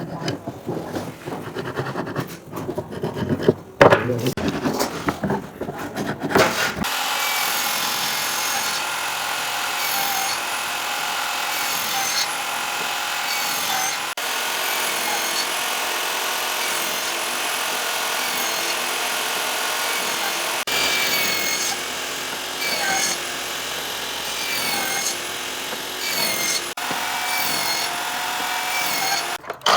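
A power tool working wood. It starts about seven seconds in and runs steadily, its pitch wavering slightly with the load, and it stops just before the end. Before it, irregular scraping and rubbing on wood.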